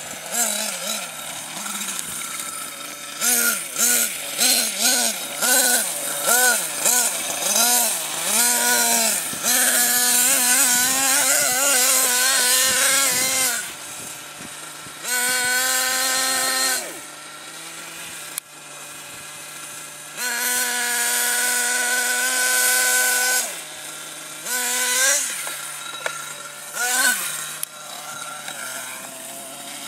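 Nitro RC monster truck's small two-stroke glow engine idling, with a string of quick throttle blips, then several wide-open-throttle runs of a few seconds each, dropping back to idle between them and blipping twice near the end.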